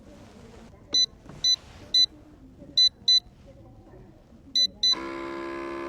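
Electronic control-panel beeps from an electric kettle's base, seven short high beeps as its buttons are pressed. About five seconds in, a steady electric buzz starts and keeps going.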